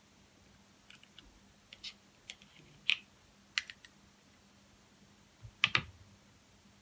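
Spoon tapping and scraping against the Vaseline tub and a small lidded container as Vaseline is scooped across: a string of light clicks, with a louder double knock near the end.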